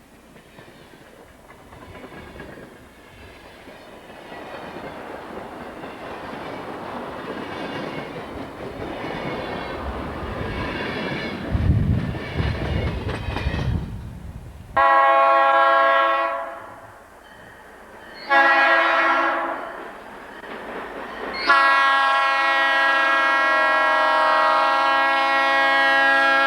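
Diesel freight locomotive approaching, its rumble growing louder. It then sounds its multi-note air horn: a long blast, a short one, and a long held blast, the closing part of a grade-crossing signal.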